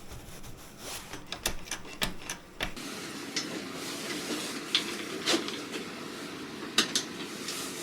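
Intermittent light clicks and taps of tools and small metal parts being handled and fitted on a motorcycle, over a steady low background hum.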